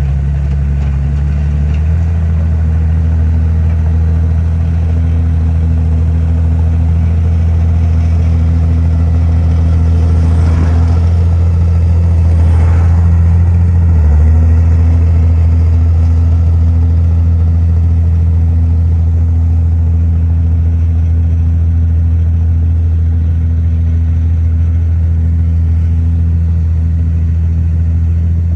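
Heavy diesel engine of earthmoving machinery running steadily, its pitch stepping up about two seconds in and dipping briefly about halfway through, with a faint rush of noise just before the dip.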